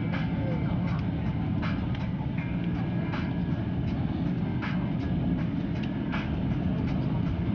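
Steady low rumble inside the cabin of an Airbus A350-900, with a short light click about every one and a half seconds.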